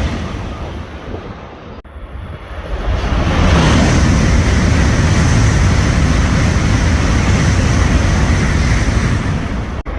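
Tokaido Shinkansen N700-series trains passing through a station at high speed: a loud, even rushing noise with no pitched tone. One pass fades out over the first two seconds and breaks off sharply. The next train's rush builds from about three seconds in, holds loud, and breaks off sharply just before the end.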